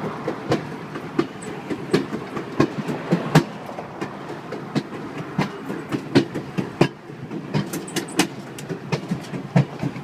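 Napa Valley Wine Train's passenger car rolling along the track: a steady rumble with frequent irregular clacks and knocks.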